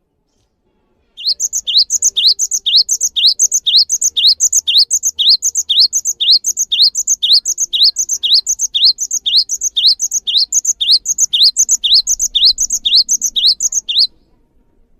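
Gelatik bird singing: a long, even series of short, high, upward-sweeping chirps, a little over two a second, that starts about a second in and cuts off suddenly about a second before the end.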